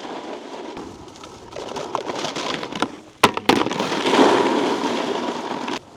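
Snowboard sliding over icy, crusty snow with a rough scraping, broken by two sharp knocks about three seconds in. After the knocks the scrape is louder, then it stops abruptly near the end.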